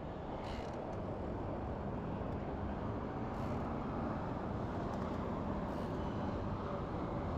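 Steady rushing road noise of traffic and wind, picked up while riding an e-bike along a road, slowly growing a little louder.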